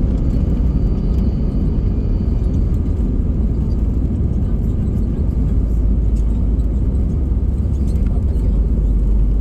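Steady low rumble of an Airbus A320 airliner heard from inside the passenger cabin, even in level throughout.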